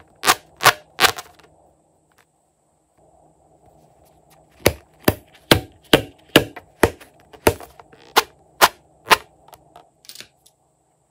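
A run of sharp pops or cracks, about two a second, in two bursts with a pause of a few seconds between them, the later burst about a dozen strong.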